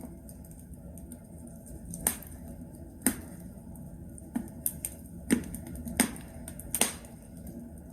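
Wood logs crackling in a fireplace: a scattering of sharp, irregular pops over a low, steady rumble of the fire.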